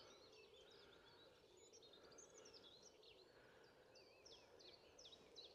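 Near silence with faint, distant birds singing: many short high chirps and little trills, one after another.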